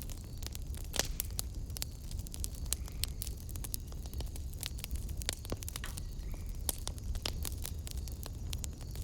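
Wood fire in a fireplace crackling: irregular sharp pops, several a second, over a low steady rumble. The loudest pop comes about a second in.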